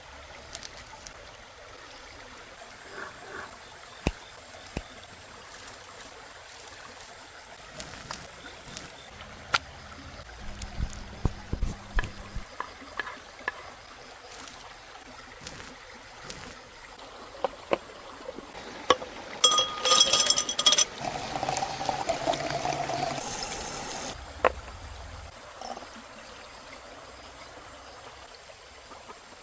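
Scattered clinks and taps of cooking utensils. About two-thirds of the way in, liquid is poured into a container for a few seconds, and its pitch rises as the container fills.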